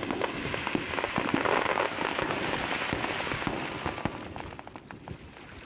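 Fireworks crackling: a dense shower of small pops and crackles that thins out and fades over the last couple of seconds.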